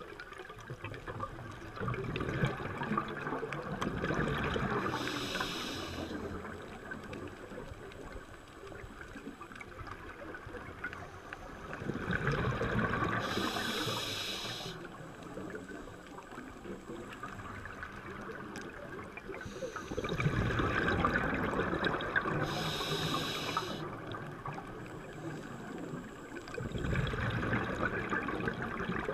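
Scuba diver breathing through a regulator, heard underwater: three breaths about eight seconds apart, each a short hiss on the inhale and a swell of bubbling on the exhale.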